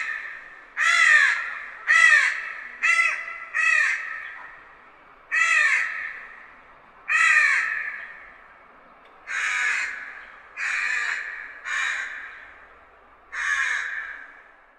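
Crow cawing: about ten harsh caws, each under a second, spaced one to two seconds apart, each trailing off in an echo.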